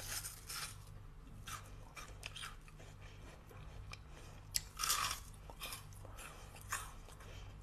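Biting and chewing frozen fruit: crisp crunches of icy flesh in irregular bites, the loudest a little under five seconds in.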